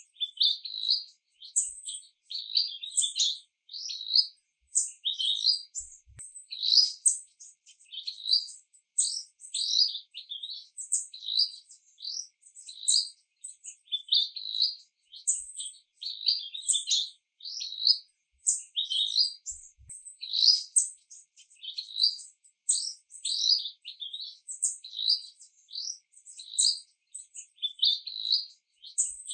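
Birds chirping in quick, high, repeated notes, over and over without a break; no rain is heard.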